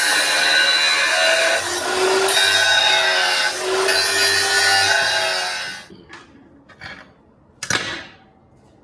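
Electric grinder working steel, its motor tone dipping and recovering under load, then cutting off about six seconds in. A few short knocks follow.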